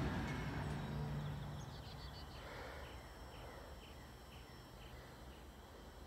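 A low rumble from the stopped train fades away over the first second or so. Then a small bird calls a short repeated chirp, about twice a second, for several seconds.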